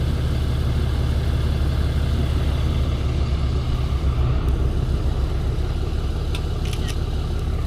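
Tow truck's engine running, a steady low drone, with a few faint short clicks about six and a half to seven seconds in.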